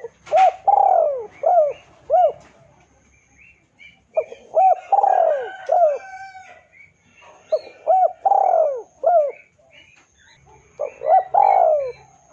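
Spotted dove (tekukur) cooing: four repeated phrases, each a run of rounded coos with one longer drawn-out note, about three seconds apart. Faint chirps of small birds sound behind it.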